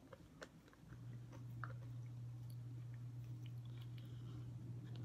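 A person chewing food close to the microphone, with small sticky mouth clicks. A steady low hum comes in about a second in.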